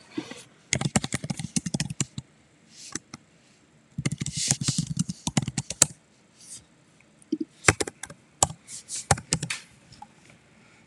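Typing on a computer keyboard: three bursts of rapid key clicks with short pauses between them.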